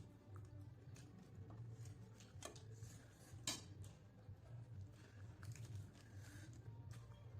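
Faint clicks and taps of a meal being eaten from a plate, one sharper click about three and a half seconds in, over a low steady hum.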